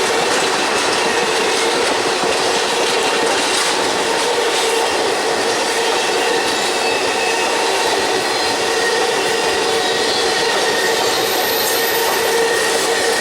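Railroad cars rolling steadily past, with continuous wheel-on-rail noise and high steady squealing from the wheels.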